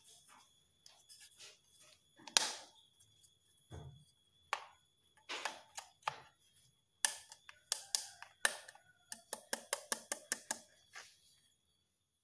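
Scattered sharp clicks and knocks of hard plastic parts being handled, as a compact fluorescent bulb's plastic base is pressed together and the bulb is set into its holder. A quick run of light clicks comes near the end.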